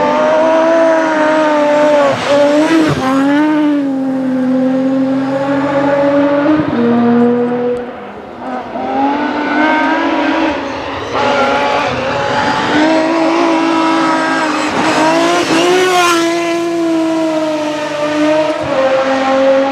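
Rally car engine at full throttle on a special stage, the revs climbing and dropping again and again through gear changes and lifts, with a short dip about eight seconds in.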